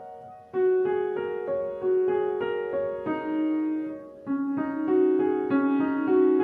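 Background piano music: a slow melody of single struck notes, with brief gaps just after the start and about four seconds in.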